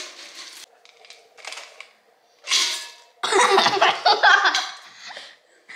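Spoon stirring crisp chow mein noodles through melted chocolate in a mixing bowl: uneven crunching and scraping with knocks against the bowl, loudest from about halfway in.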